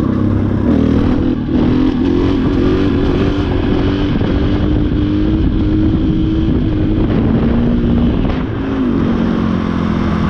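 KTM 500 EXC dirt bike's single-cylinder four-stroke engine running under way on the trail, its pitch stepping up and down with the throttle and dipping briefly about a second and a half in and again near eight and a half seconds.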